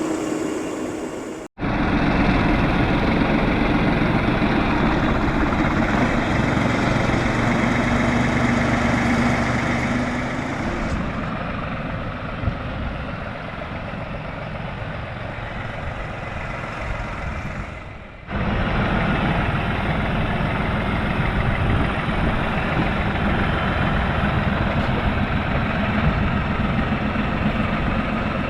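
Tractor engine running steadily while clearing snow with its front bucket. The sound drops out abruptly twice, about a second and a half in and again near 18 seconds, then resumes.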